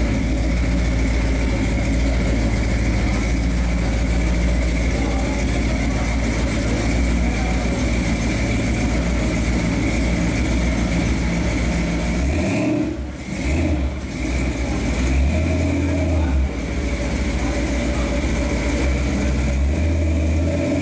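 1973 Ford pickup's engine running loud and steady on a chassis dyno, briefly dropping off about thirteen seconds in, then running again with a low note that swells and fades.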